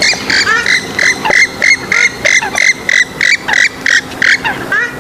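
Swamphen and moorhen calls: a fast run of short, clipped notes, about four a second, mixed with a few upslurred squawks near the start and end.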